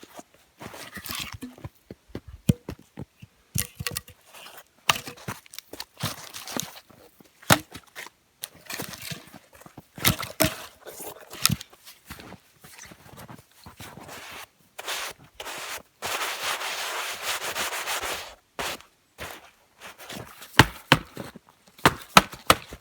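Irregular knocks, clicks and rubbing sounds of hands-on work, with one steady scraping sound about two seconds long about three-quarters of the way through and a run of louder knocks near the end.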